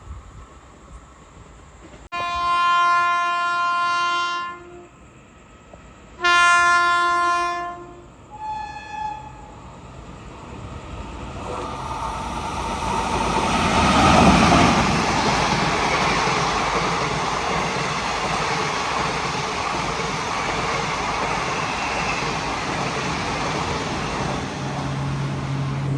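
Train locomotive sounding two long horn blasts and two short toots, then the train passing through at speed: a rushing noise that swells about eleven seconds in, is loudest as the locomotive goes by, and holds steady as the ICF coaches run past.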